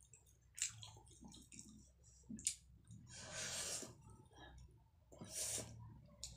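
Close-miked eating sounds: wet chewing and mouth smacks as rice and dal are eaten by hand, with a few sharp clicks and two longer hissing rushes about three and five seconds in.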